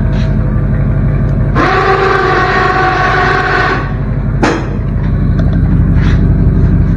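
8.1-litre Vortec big-block V8 truck engine running at low speed under load, with a loud, steady horn-like tone held for about two seconds in the middle and a sharp click shortly after.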